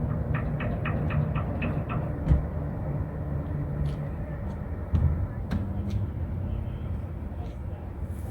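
Outdoor ambience with a steady low rumble, a quick run of light ticks about half a second to two seconds in, and sharp knocks a little over two seconds and about five seconds in.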